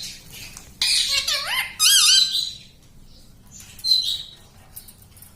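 Ringneck parrot (rose-ringed parakeet) calling: two loud bursts of squawking calls with wavering, looping pitch in the first two and a half seconds, then a shorter call about four seconds in.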